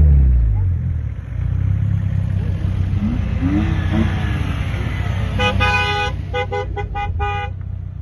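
Car engine running with a low, steady rumble; about two thirds of the way in a car horn sounds, one longer toot followed by about four quick short toots.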